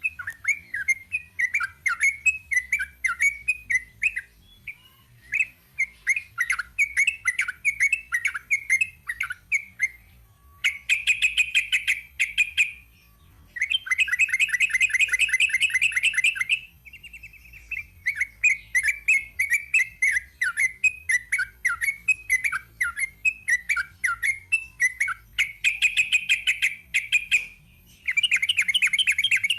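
Sooty-headed bulbul (trucuk) singing a long, fast 'ropel' song: runs of quick chattering, warbling notes broken four times by dense, rapid trills lasting one to three seconds each.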